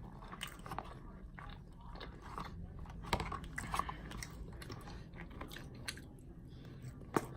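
A person chewing and biting McDonald's food close to the microphone: irregular small mouth clicks, fairly quiet, with a sharper click near the end.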